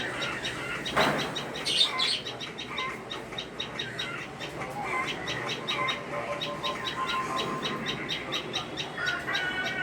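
Tailorbirds chirping: a fast run of short, high chirps, about five a second, with a sharp click about a second in.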